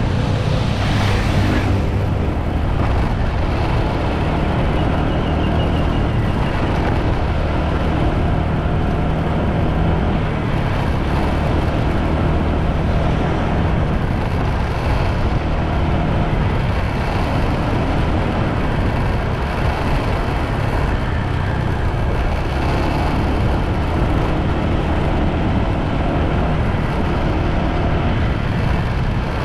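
Steady ride noise from a motorbike underway: a continuous rush of wind and road noise, heaviest in the low end, with the bike's engine running throughout. A brief brighter hiss comes about a second in.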